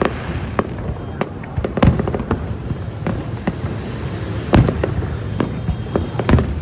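New Year fireworks display going off: a rapid, irregular string of bangs and pops over a steady rumble, with louder booms about two seconds in, past four and a half seconds, and near the end.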